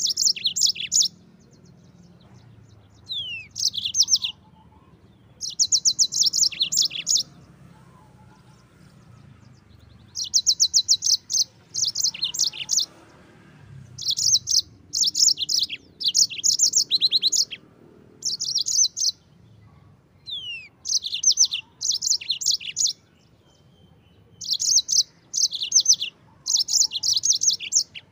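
Yellow-fronted canary (Mozambique canary) singing in short bursts of fast repeated trilled notes, each about a second long and separated by brief pauses, with an occasional single downslurred whistle between them.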